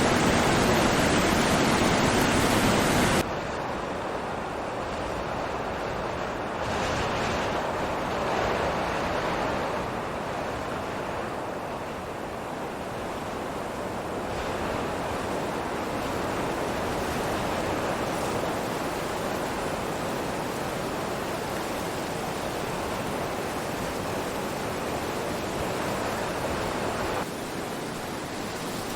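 Steady rushing water noise with no distinct events. It drops abruptly in level about three seconds in and changes again near the end.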